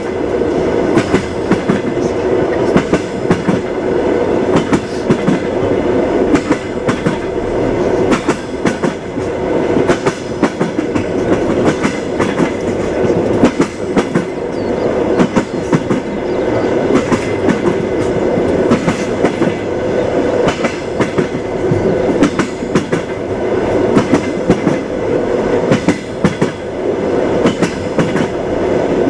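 Moving passenger train: a steady rumble with the repeated clickety-clack of the wheels knocking over the rail joints.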